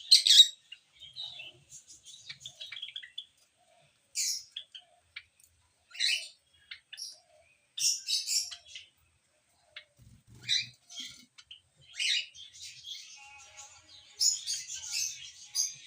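A small bird chirping: short high-pitched calls in clusters every second or two, turning into busier twittering near the end.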